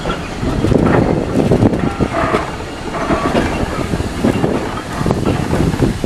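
Railway carriage rolling slowly over pointwork, its wheels rumbling and clattering with irregular knocks over the rail joints and crossings, heard at an open carriage window.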